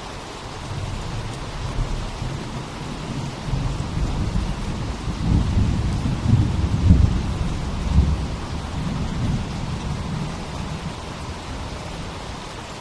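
Steady rain hiss with a long, low thunder rumble that builds about half a second in, peaks several times in the middle, and fades away near the end.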